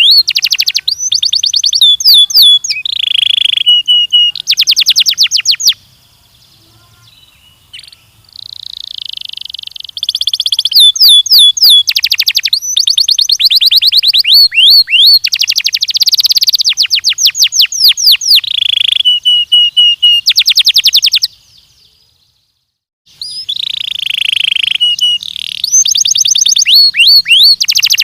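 Domestic canary (Belgian canary) singing loud, fast trills of rapidly repeated notes in phrases a few seconds long, with two brief pauses. It is a song-training recording meant for young canaries to learn from.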